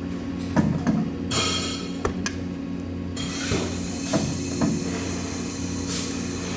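Steady low electrical machine hum with scattered metal clinks and knocks. A brief hiss comes about a second in, and a steady hiss sets in about three seconds in.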